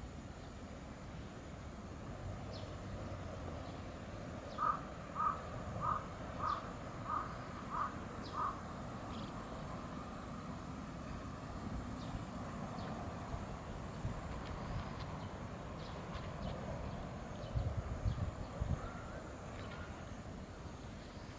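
A bird calls seven times in a steady series, about one call every 0.6 seconds, over outdoor background noise. A few short low thumps follow near the end.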